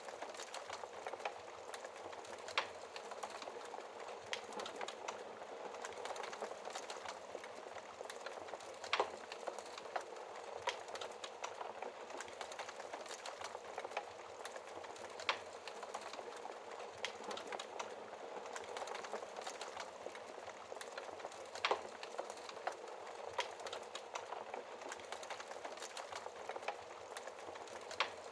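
Wood fire in a fireplace crackling steadily: a soft hiss full of small, quick crackles, with a louder sharp pop every few seconds.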